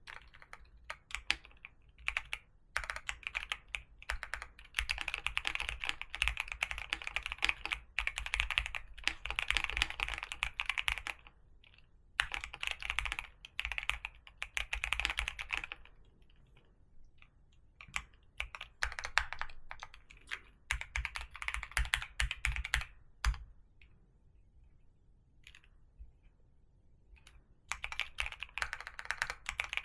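Typing on a computer keyboard in fast runs of key clicks, broken by short pauses. After a stretch of only a few scattered keystrokes late on, steady typing starts again near the end.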